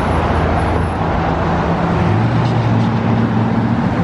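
Road traffic: a motor vehicle running close by, its low engine hum shifting up in pitch about halfway through, over a steady hiss of road noise.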